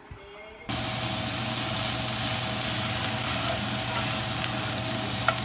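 Food sizzling in a hot frying pan: a steady hiss that starts suddenly about a second in.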